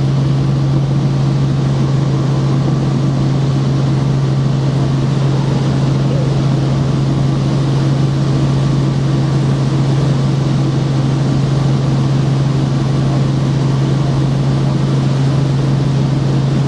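Helicopter in flight heard from inside the cabin: a loud, steady drone of engine and rotors, a strong low hum under a rushing noise, unchanging throughout.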